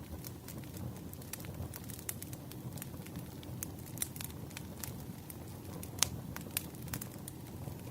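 Wood fire burning, with a steady low rumble and frequent sharp pops and crackles of the burning logs; one louder pop about six seconds in.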